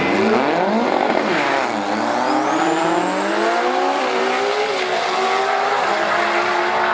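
Super sedan drag racing cars at full throttle on a pass, engine pitch climbing in steps as they shift gears, with a thin high whine rising about two seconds in.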